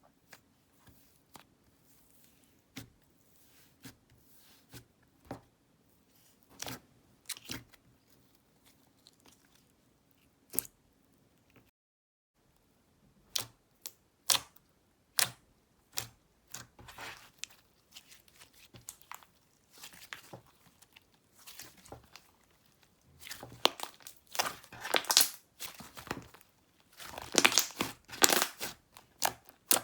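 Slime being squeezed and pressed by hand, giving sticky clicks and small crackling pops, spaced out at first and coming thicker and louder in the last several seconds.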